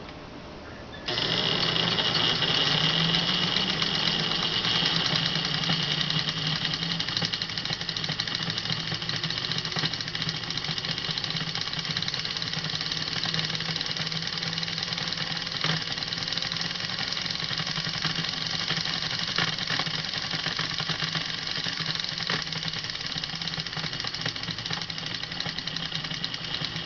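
Lionel 746 Norfolk & Western 4-8-4 model steam locomotive, freshly serviced, running under power: its electric motor and gearing start about a second in and keep up a steady whir, with a few short clicks along the way.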